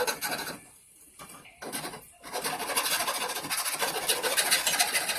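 Hand file rasping on the steel of a knife, filing off burrs. A few short strokes with brief pauses about one and two seconds in, then steady quick back-and-forth filing.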